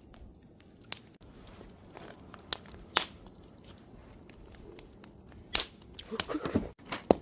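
Wood fire burning, crackling with scattered sharp pops over a low hiss, the pops coming thicker near the end.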